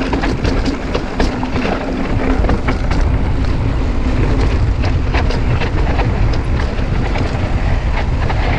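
Mountain bike descending a rough dirt trail: tyres rumbling over the ground with a constant clatter of rattles and clicks from the bike.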